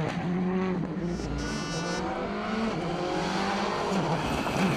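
A World Rally Car's turbocharged four-cylinder engine at full attack on a rally stage, its pitch climbing and dropping again and again through gear changes and corners.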